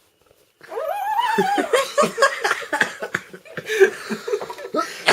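A man's voice imitating a turkey's gobble, a rapid warbling that starts about half a second in, mixed with laughter.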